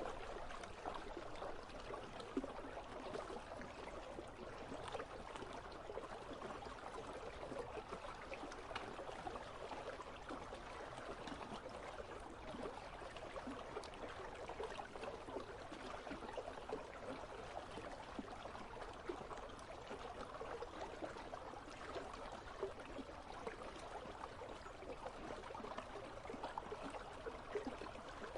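Icy river flowing, a steady babble of running water.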